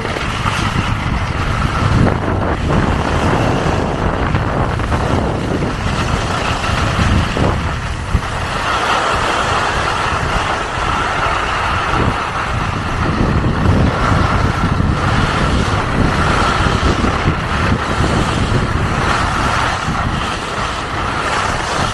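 Wind rushing over the microphone and skis running over soft snow during a downhill ski run, a steady, fluctuating rush with a low rumble.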